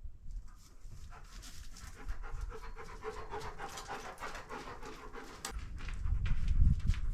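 Rapid panting in quick, even breaths, most likely a dog's. About five seconds in it gives way to low rumbling thumps.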